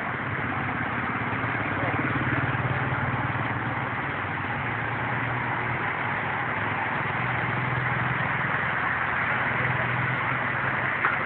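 A vehicle engine idling steadily under an even hiss of rain.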